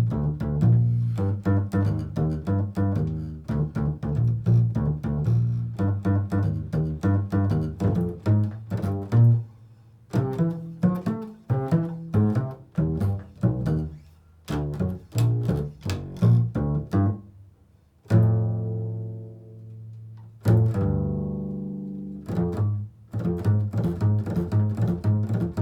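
Improvised solo music on a plucked low-register string instrument, a quick run of bass notes. Near the end, two long notes are left to ring out and fade.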